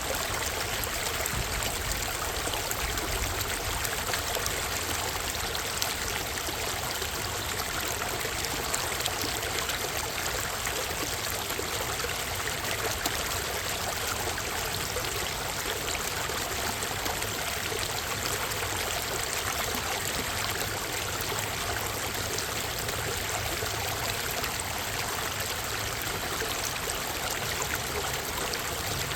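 Minnehaha Creek's water rushing steadily, an even, unbroken flow.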